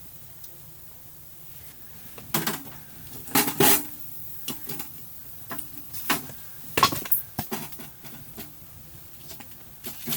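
Irregular clinks and knocks of cookware and utensils being handled, with louder knocks about two, three and a half, and seven seconds in.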